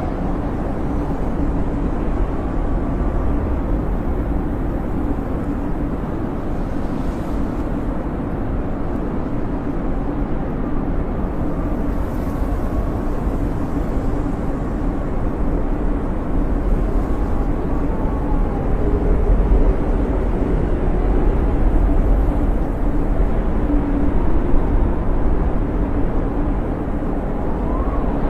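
Snowstorm wind blowing steadily, a low rumble with faint whistling tones that waver up and down.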